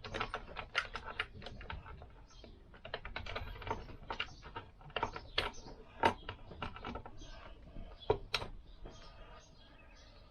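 Lambretta primary chain and sprockets clinking and rattling against metal as the chain is worked over the crown wheel and front sprocket: many irregular sharp clicks, with a louder clink about six seconds in and another about eight seconds in.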